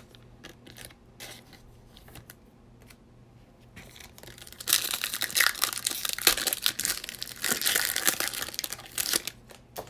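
A foil trading-card pack wrapper being torn open and crinkled, a dense crackle for about five seconds, after a few faint clicks of cards being handled.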